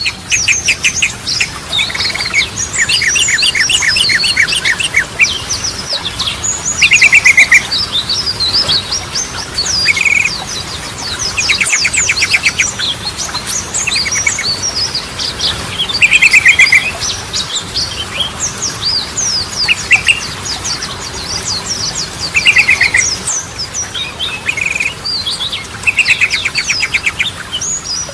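Yellow-vented bulbul (trucukan) singing: a busy run of chirps and whistled notes, broken every few seconds by short, fast rattling trills.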